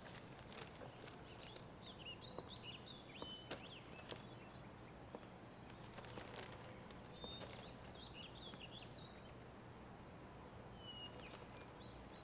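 Small birds twittering in two short bouts, one starting about a second in and another around seven seconds, over a faint steady background hiss, with scattered light clicks.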